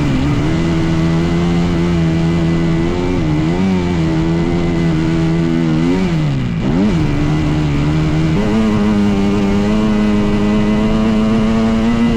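Dirt bike engine running steadily. Its pitch dips and climbs back a couple of times around the middle, then holds a little higher from about two-thirds of the way in.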